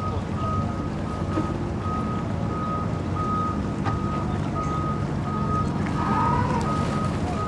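A vehicle's reversing alarm beeping steadily, about three beeps every two seconds, over the low hum of running engines.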